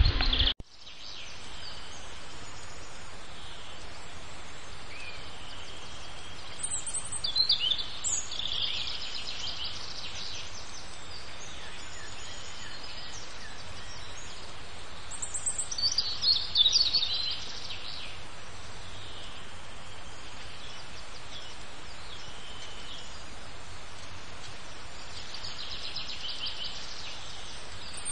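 Wild birds singing in three short bouts of chirps and trills over a steady background hiss.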